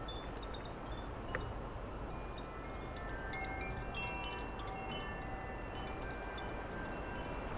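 Wind chimes ringing in a breeze, with scattered overlapping tones that grow busiest around the middle, over a steady low wind rumble on the microphone.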